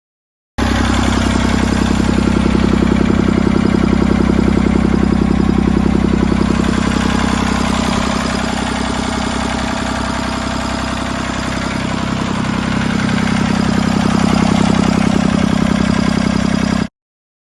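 Massey Ferguson 135's three-cylinder Perkins diesel engine running at a steady idle, easing off a little about halfway through and picking up again; the sound starts and cuts off abruptly.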